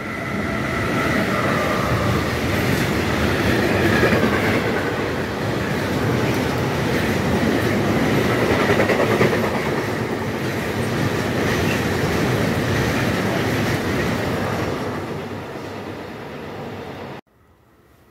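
A train passing close by: a loud, steady rumble of wheels on the rails with a rapid clicking over the track, swelling in at the start and easing off near the end before cutting off suddenly.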